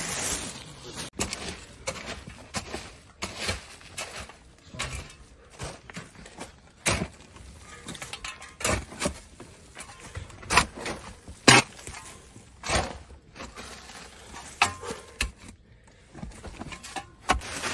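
A run of irregular knocks and clicks over a noisy background, with two louder knocks about ten and eleven seconds in.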